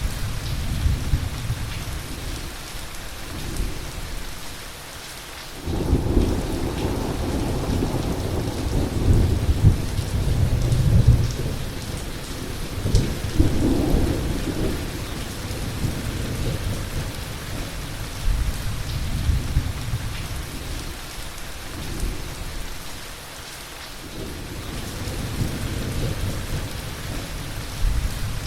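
Heavy thunderstorm: steady heavy rain with rolling thunder. A loud thunderclap breaks in suddenly about six seconds in and rumbles on for several seconds before dying away, and lower rumbles build again near the end.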